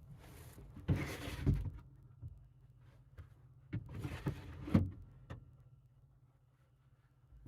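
Two bursts of scraping and rustling with knocks, each about a second long, from something being handled and fitted inside a truck's camper shell, followed by a few single light knocks.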